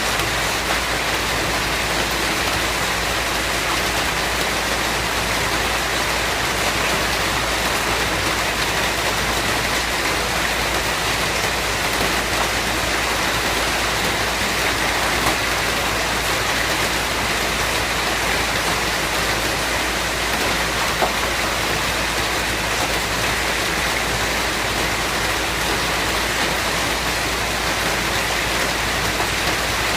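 Steady rainfall, an even, continuous hiss with no pauses or changes.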